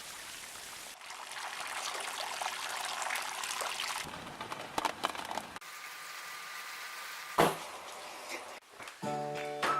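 Rain and running water hissing steadily, in several short clips that change abruptly, with a sharp knock in the middle; a guitar starts strumming near the end.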